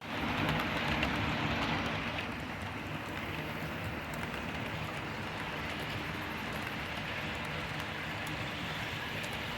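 HO scale model train rolling along the track: a steady rumble of wheels and motors with faint clicks, a little louder for the first two seconds.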